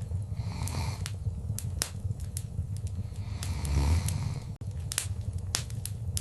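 Wood fire crackling, with scattered sharp pops over a steady low rumble of the flames. Two short hissing swells rise and fade, about half a second in and again around three and a half seconds.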